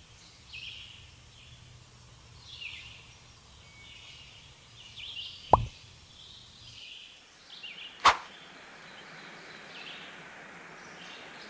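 Small birds chirping again and again in the background, short high calls about a second apart. Two sharp clicks stand out as the loudest sounds, one about halfway through and one a little later.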